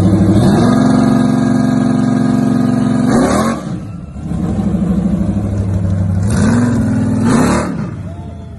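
Car engine revved up and held at steady high revs, dropping back about three seconds in, then revved and held again with two quick blips near the end before falling back toward idle.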